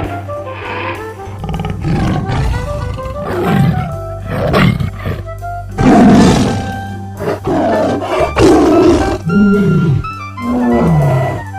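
Big cat roaring, a series of loud calls about a second apart, the last ones falling in pitch, over background music with a steady low drone.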